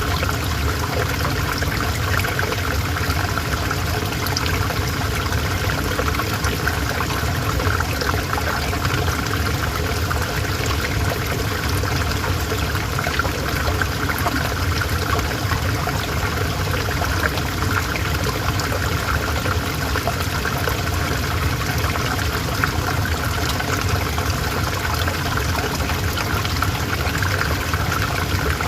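River water flowing steadily, an even rushing and babbling that does not change.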